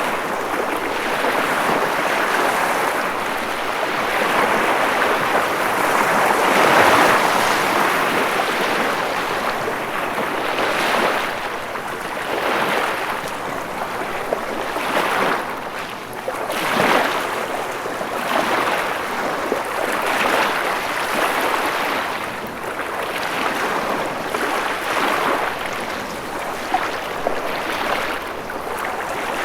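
Ocean waves washing on a shore, a continuous rushing wash that swells and eases every few seconds, loudest in a surge about seven seconds in.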